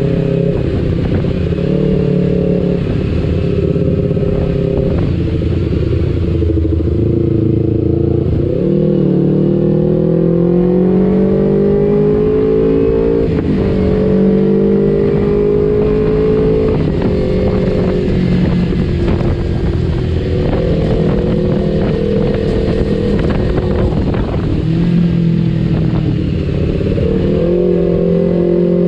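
Kawasaki Ninja 250 FI parallel-twin engine with an R9 H2 aftermarket exhaust, running under way. The revs rise and fall as the gears change, with a marked drop about eight seconds in and then a long climb in pitch.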